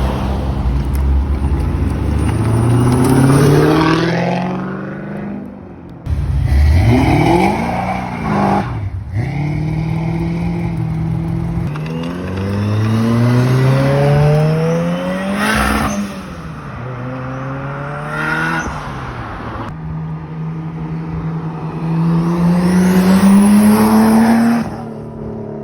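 Performance car engines accelerating hard in a run of short clips, the engine note climbing in pitch again and again and dropping at each lift or gear change. About two-thirds of the way through, one car sweeps past close by.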